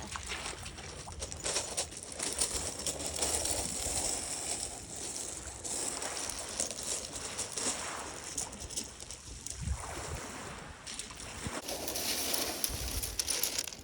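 Sea waves washing onto the beach, the surf swelling and easing, with wind gusting on the microphone.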